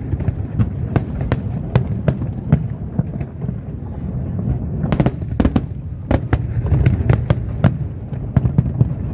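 Fireworks display: a rapid, irregular string of sharp bangs from exploding aerial shells over a continuous low rumble, with a dense cluster of louder bangs about five seconds in.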